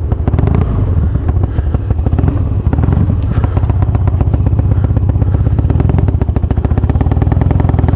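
Harley-Davidson Twin Cam 88 V-twin idling steadily with a rapid, even exhaust pulse; the engine runs Feuling 525 camshafts and hydraulic cam chain tensioners.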